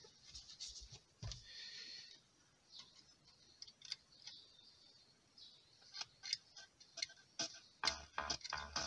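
Faint scattered clicks and light rustling, then, near the end, music with a bass beat starts playing through a car speaker wired up for testing.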